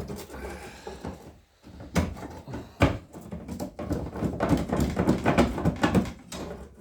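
Sharp knocks from tools and parts during an engine removal, one right at the start and two more about two and three seconds in, followed by a few seconds of busy clattering and scraping as a part is worked loose.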